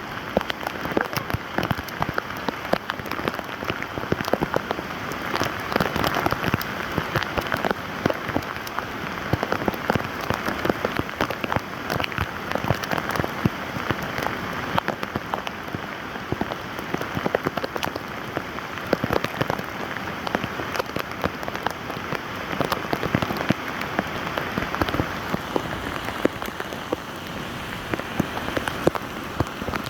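Steady rain falling, a dense patter of drop impacts that keeps up evenly throughout.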